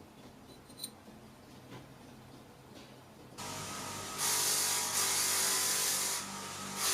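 A few small clicks, then about halfway in a small electric power tool motor starts running with a steady whine and hiss, getting louder a moment later, dipping briefly near the end and picking up again.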